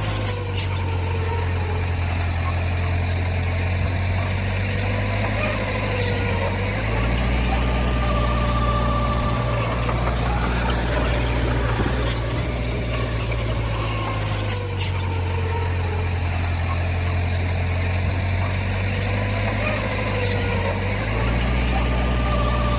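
Diesel engine of heavy earthmoving machinery running under load, its low drone stepping up and down in pitch every several seconds, with a whining tone that rises and falls and a few sharp clanks.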